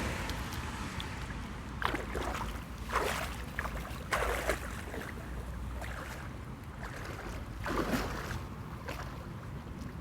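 Water splashing, several separate splashes over a steady rush of moving water.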